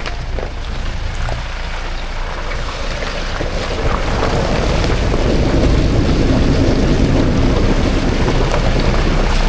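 Safari jeep driving along a jungle track: steady engine and road rumble with wind buffeting the microphone, growing louder about four seconds in.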